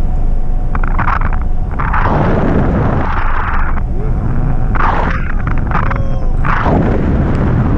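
Wind rushing over the microphone of a hang glider in flight: a loud, steady low rumble with stronger gusts about two, five and seven seconds in.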